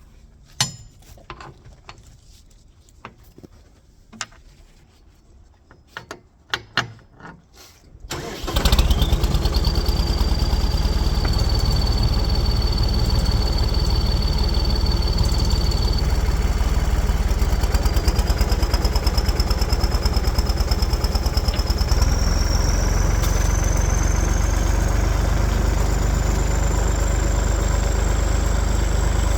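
A few scattered clicks and knocks, then about eight seconds in a tractor engine starts and settles into a steady run. A thin high whine rides over the engine and climbs in pitch in steps over the following seconds.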